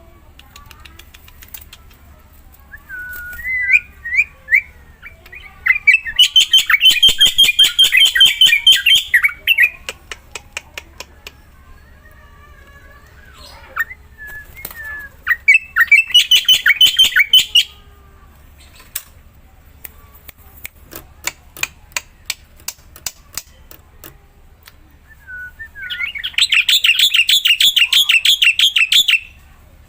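Black-winged starling (jalak putih) singing: three loud bursts of rapid, repeated chattering notes, each led in by a few short whistled notes, with scattered clicks between the bursts.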